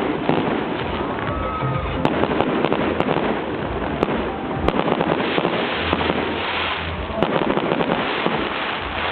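Fireworks going off: dense, continuous crackling with scattered sharper pops, with music playing underneath.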